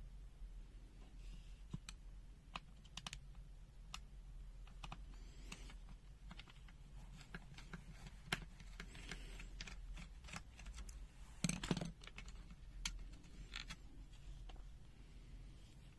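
Scattered small clicks and scrapes from the plastic case and parts of a UNI-T UT60S multimeter being taken apart by hand, with a louder rattle about eleven and a half seconds in.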